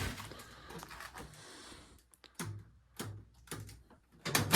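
Small wheeled storage cart being pulled close and handled: a faint rolling hiss, then a handful of light clicks and knocks, the loudest near the end.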